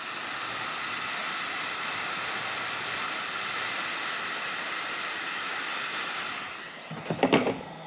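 Heat gun blowing steadily, shrinking heat-shrink tubing and labels onto harness wires, then switching off near the end.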